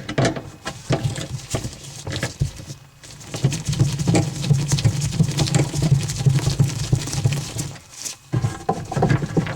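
Screws being backed out of a dishwasher panel with a driver: clicking and rattling of metal and plastic parts, with a steady low hum and rapid clicking from about three seconds in to about eight seconds.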